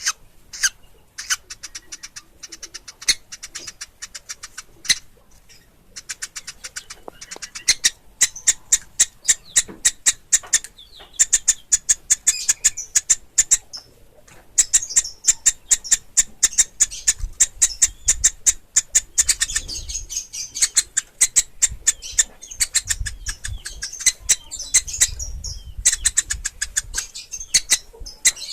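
Woodpecker nestlings calling: rapid runs of short, high-pitched notes, several a second, broken by brief pauses.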